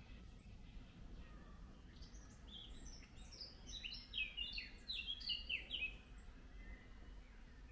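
A songbird singing one rapid phrase of short, high, falling notes, starting about two seconds in and lasting about four seconds, over a faint low rumble.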